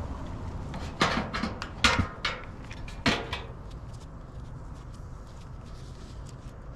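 Several sharp clacks and knocks in quick succession between about one and three seconds in, like hard objects or panels being handled, followed by faint small ticks.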